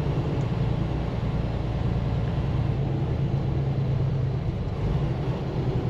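Semi truck's diesel engine running with road noise, heard from inside the cab as a steady low drone.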